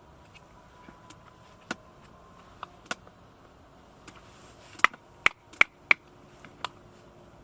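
Sharp wooden knocks and cracks of firewood being chopped for a campfire: a few scattered light taps, then a run of four loud strikes, about three a second, two-thirds of the way in.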